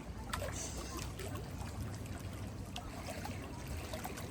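Lake water sloshing and trickling, with a steady low rumble underneath and a few small splashes.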